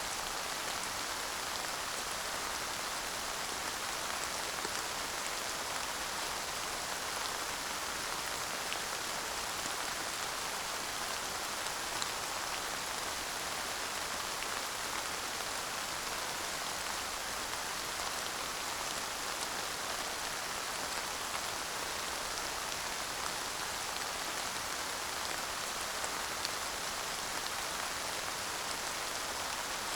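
Steady rain falling on a surface, an even hiss with scattered individual drop ticks and no thunder.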